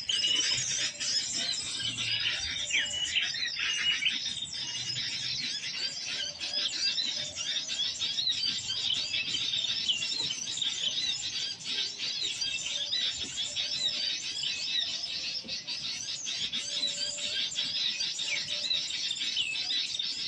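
Recorded birdsong lure played through a small speaker: dense, continuous high chirping and trilling, switched on just before and running without a break, used to call wild birds in.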